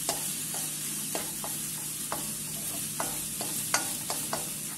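Chopped onion and bell pepper sizzling in oil in a nonstick wok, stirred with a wooden spoon that scrapes and taps against the pan about a dozen times.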